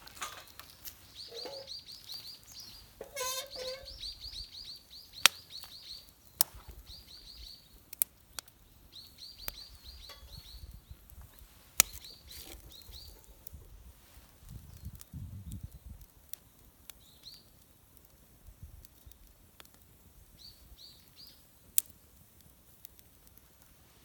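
A songbird calling in runs of quick, high, repeated chirps, thickest in the first half and returning briefly near the end, with a few sharp single cracks scattered between.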